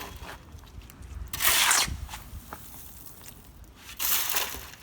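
Loose construction debris being scraped and shifted on the road surface: two short, gritty scrapes about two and a half seconds apart, part of a steady working rhythm.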